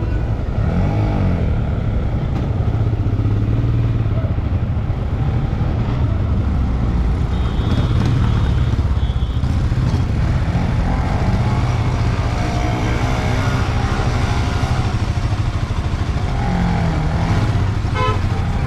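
Royal Enfield Himalayan 411 cc single-cylinder motorcycle running steadily under way, a continuous low rumble.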